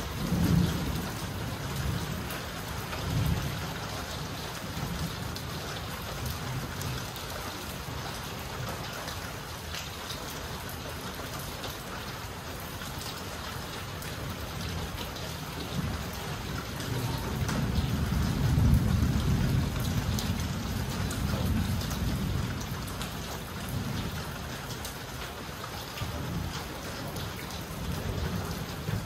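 Steady rain falling, a continuous hiss dotted with the patter of individual drops. Under it, low rumbles swell and fade several times, loudest about two-thirds of the way through.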